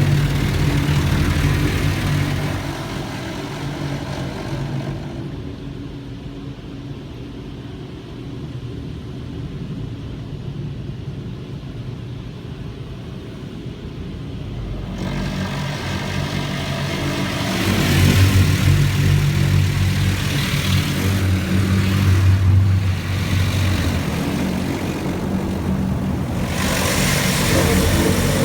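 PDQ LaserWash G5 touchless car wash spraying water onto the car, heard from inside the cabin: a loud hiss of spray over a steady low pump hum. The spray dies away about five seconds in, leaving only the hum, and comes back strongly about fifteen seconds in.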